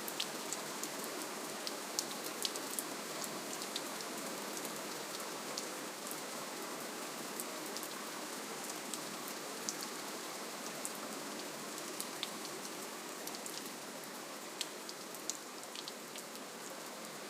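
Steady gentle rainfall: an even hiss of rain with many individual drops ticking sharply on a surface, scattered irregularly throughout.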